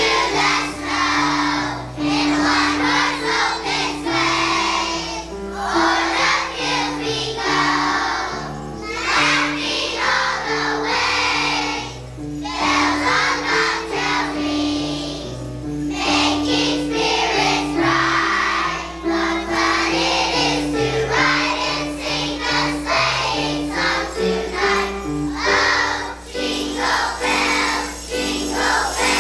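Children's choir singing a Christmas song over an instrumental accompaniment with a stepping bass line and jingle bells.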